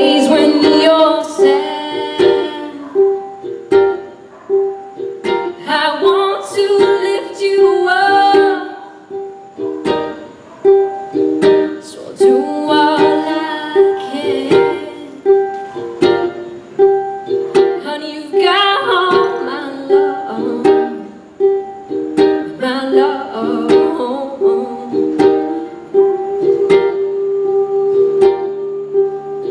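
Live acoustic music: a ukulele strummed in a steady pattern, with a wordless vocal melody in phrases a few seconds long.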